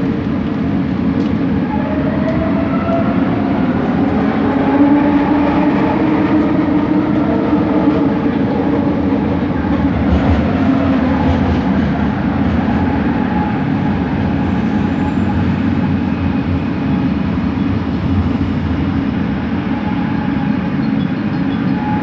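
Steady running noise of a Bombardier Innovia ART 200 train, heard from inside the coach as it rolls along. Between about two and twelve seconds in, a motor whine from its linear induction motors glides up and down in pitch over the rumble.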